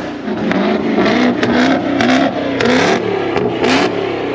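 A car engine being revved hard again and again, its pitch climbing and dropping several times in quick succession.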